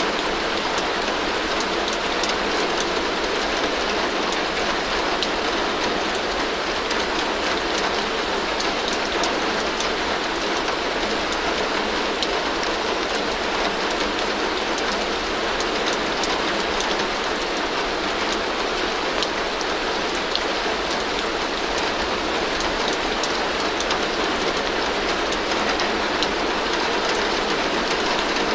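Heavy rain drumming steadily on a tin roof: a dense, even wash of noise with countless small drop ticks, unchanging in level throughout.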